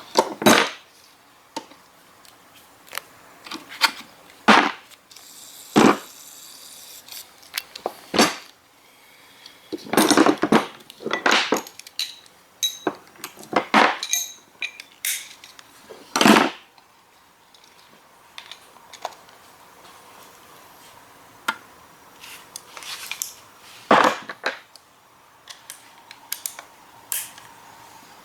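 Metal hand tools and steel transmission parts clinking and clanking, in scattered sharp knocks with short pauses between: a Honda K-series six-speed manual transmission being taken apart by hand.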